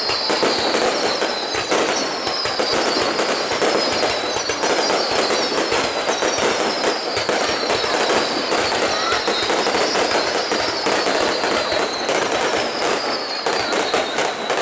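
Fireworks display: dense, continuous crackling and popping of bursting shells, with a series of high whistles, each falling in pitch, repeating every second or so.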